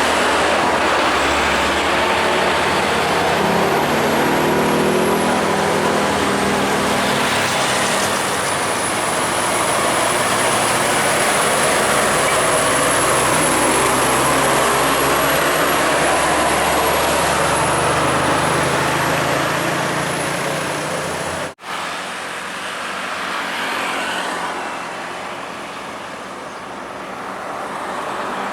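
Road traffic with heavy trucks driving past: steady engine and tyre noise, broken by a sudden cut about two-thirds through and going on a little quieter after.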